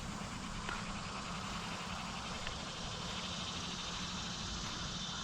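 Outdoor ambience: insects chirring steadily in a fine, even pulse, with wind rumbling on the microphone.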